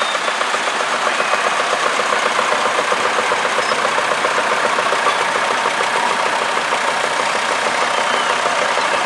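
Vintage tractor engine running slowly at near-idle, a steady, even chugging with no change in speed.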